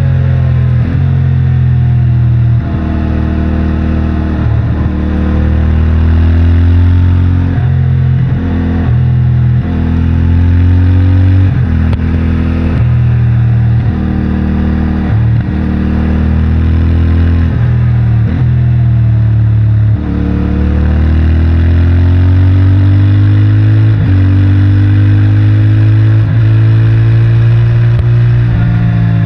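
CFMOTO 450MT's 449 cc parallel-twin engine and stock exhaust pulling hard through the gears, its pitch climbing and dropping briefly at each quick shift. In the second half it makes one long, steady climb in revs.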